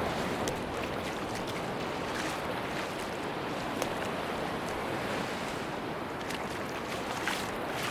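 Sea surf washing on a beach: a steady rush of waves, with faint crackles scattered through it.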